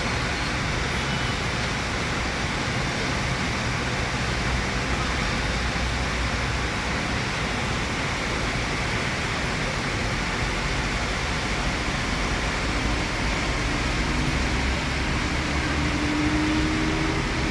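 Heavy rain falling in a steady hiss, over a low rumble; a faint rising hum comes in near the end.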